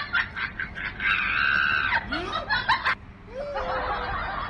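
Noisy slurping of noodles: short sucking smacks, then one long high slurp about a second in.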